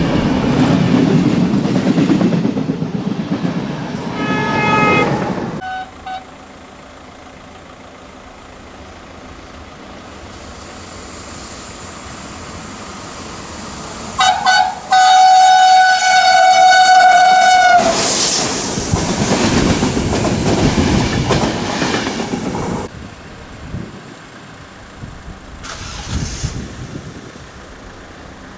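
Two electric passenger trains pass close by on the line. The first, a train of coaches, rumbles past and gives a short horn note near the end of its pass; then, after a quiet spell, a second train coming out of a tunnel sounds its horn, two short toots and then one long steady blast of about three seconds, and rumbles past before fading away.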